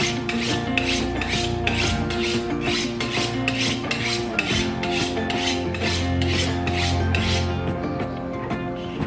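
Rhythmic rasping scrape strokes on potatoes, about three a second, from a vegetable peeler. The strokes stop near the end. Background music with sustained chords plays underneath.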